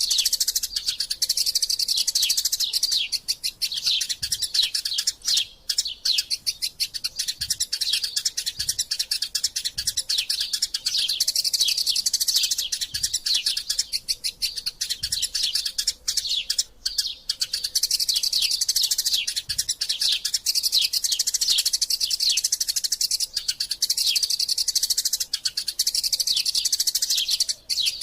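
Eurasian tree sparrows chattering in a fight: a dense, unbroken stream of quick, high chirps.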